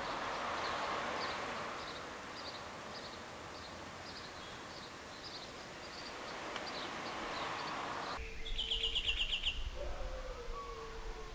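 Small birds chirping, short high calls repeated every half second or so over a steady rushing background. About eight seconds in, the sound changes to a fast, even, high trill over a steady low tone.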